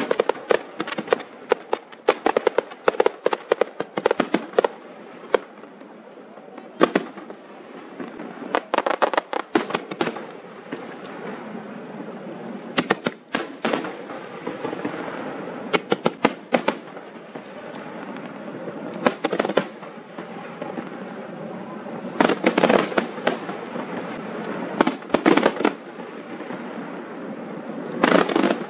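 Fireworks display: aerial shells bursting in rapid volleys of sharp bangs, densest in the first few seconds and again near the end, with a steady rumble and scattered bangs between the volleys.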